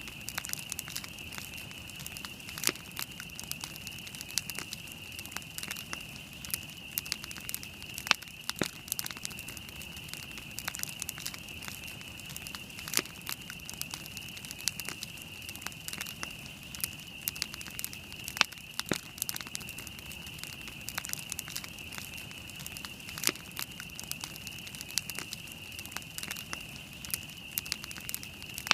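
Wood campfire burning and crackling, with frequent sharp pops at irregular intervals, a few of them louder, over a steady high-pitched hiss.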